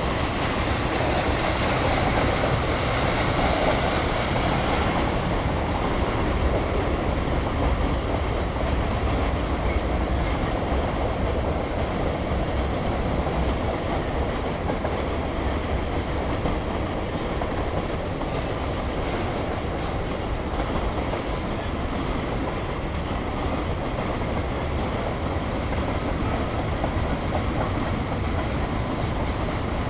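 Freight cars of a CSX mixed freight train rolling steadily past, a continuous rumble of wheels on rail, a little louder in the first few seconds.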